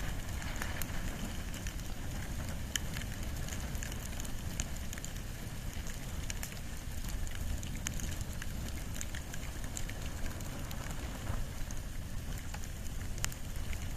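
Open fire of wood and bamboo burning, with irregular sharp crackles and pops over a steady low rumble.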